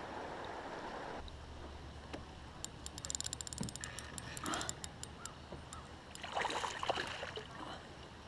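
Water noise around a kayak on a river, with a quick run of small high clicks about three seconds in and a few scattered knocks and splashes later.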